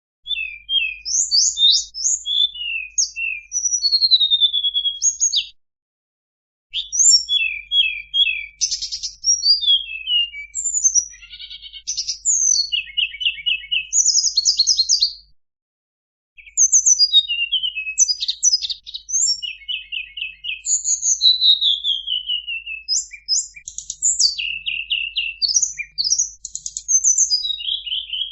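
Tledekan gunung singing a fast, varied song of sharp chirps, rattling trills and down-slurred whistles, pausing briefly twice.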